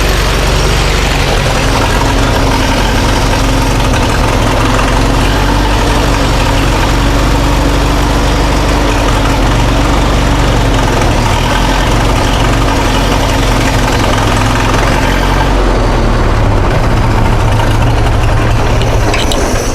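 Massey Ferguson 65's gasoline engine idling steadily, then cutting off right at the end. It doesn't sound right; the owners suspect a still-clogged carburetor.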